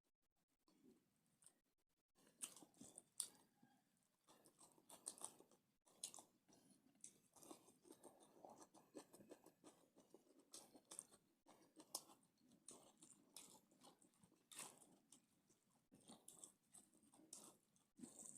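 Close-up chewing with irregular crunches and crackles, as of someone eating. It starts about two seconds in after a quiet moment.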